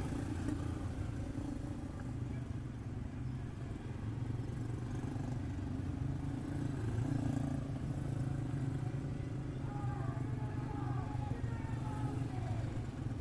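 Quarter midget race cars with single-cylinder Briggs & Stratton Animal engines running together on the track as a steady engine drone, with pitch wavering toward the end as the engines rev.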